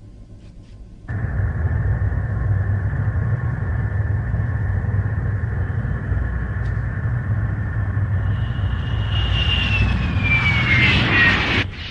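Animated sound effect of a flying craft's engine: a loud, steady, low rumble that starts abruptly about a second in, with a falling whine near the end, then cuts off suddenly.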